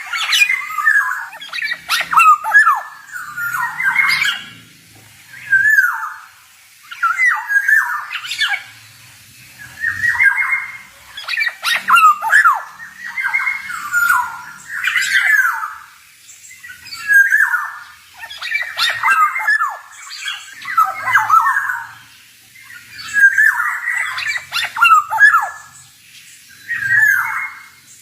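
Male black-naped oriole (kepodang) singing, a string of short phrases of quick rising and falling whistled and harsher notes, one every second or two with brief pauses between.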